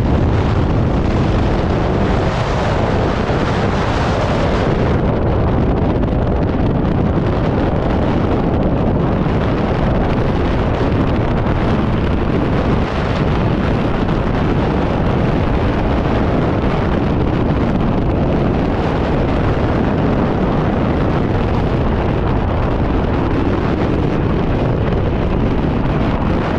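Loud, continuous roar of jet aircraft engines overhead, heavy in the low end and overloading the phone's microphone.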